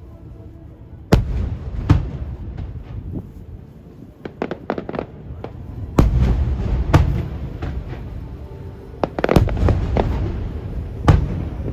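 Aerial fireworks shells bursting: sharp booms a second or more apart, a quick run of smaller cracks near the middle, and a low rumble carrying on between the bursts.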